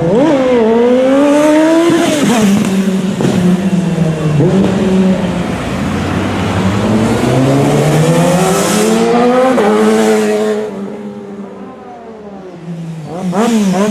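Modified motorcycle engine revving again and again, its pitch rising and falling. It eases off for about two seconds near the end, then revs up once more.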